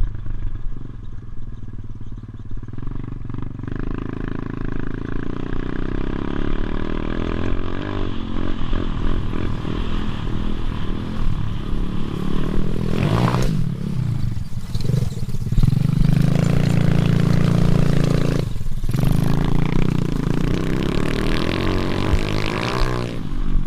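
Motorbike engine running and revving, its note repeatedly rising and falling, with a brief break in the sound about three-quarters of the way through.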